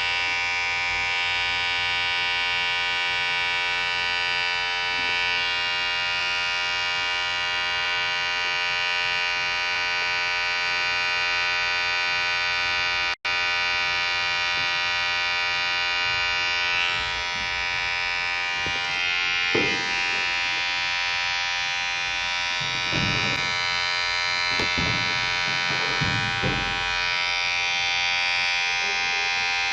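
Electric hair clipper running with a steady, constant buzz. It cuts out for an instant about halfway, and low bumps and rubbing come and go over the buzz in the second half.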